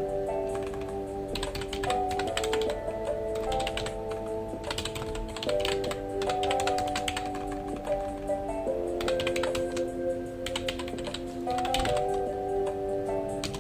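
Typing on a computer keyboard in quick bursts of keystrokes with short pauses between them, over soft background music of slow, held chords.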